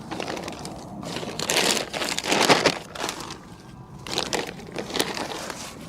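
Plastic pouch of post-setting foam crinkling and crunching as it is squeezed and crumpled by hand, in irregular bursts with the loudest stretch about two seconds in.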